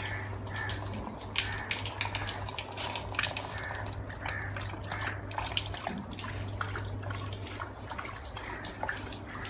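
Water running and splashing steadily, with many small splashes and drips, over a steady low hum.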